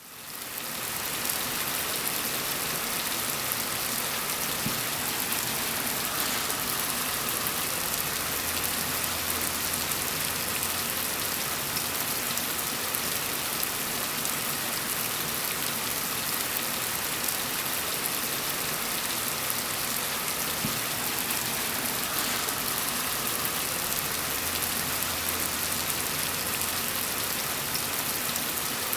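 Steady rain falling, an even hiss of countless drops, fading in over the first second or so. A faint low rumble swells and fades twice underneath.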